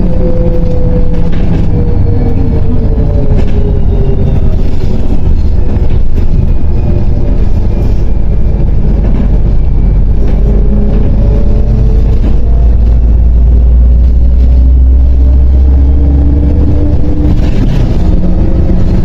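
MAZ 105.065 city bus's engine and drivetrain running, heard from on board: a steady low rumble with a whine that drops in pitch over the first few seconds as the bus slows, then climbs again through the second half as it picks up speed.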